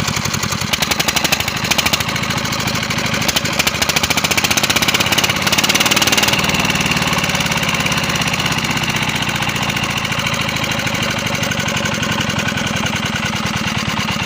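Old diesel engine running with a steady, rapid knocking beat. Its note changes about six seconds in, then it settles into an even run.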